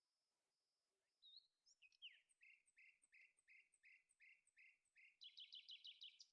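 A songbird singing outdoors: after a faint, evenly repeated high note, it gives a run of repeated downward-sliding whistled notes, about three a second, that speed up into a quicker, higher trill near the end.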